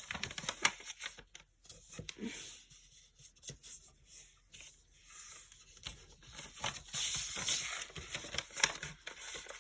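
A sheet of origami paper being handled, folded and creased by hand: scattered crinkles and crackles, with a longer rustle of paper sliding and being pressed flat near the end.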